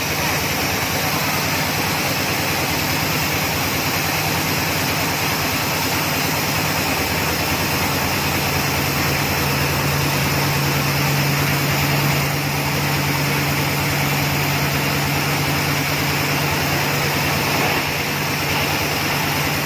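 Engine of a large well-drilling rig running steadily, with a low hum that grows stronger about eight seconds in and eases again near the end.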